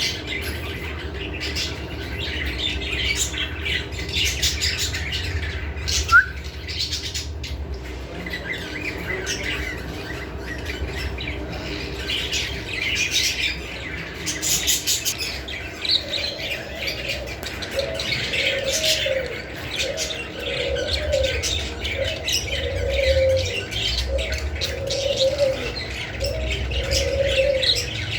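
Many birds chirping continuously in short high calls. From about halfway through, a pigeon coos repeatedly in short lower phrases.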